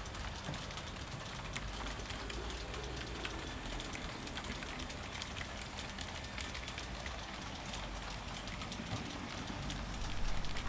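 Model train locomotive running along the layout track: a steady low motor rumble with a fine crackle of wheels clicking over the rails, a little louder near the end.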